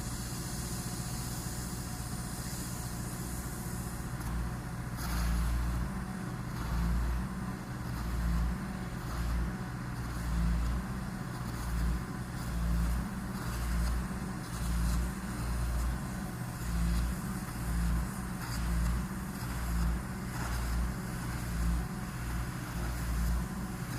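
Engine of track maintenance machinery running steadily. From about five seconds in, a low throb swells and fades roughly once a second.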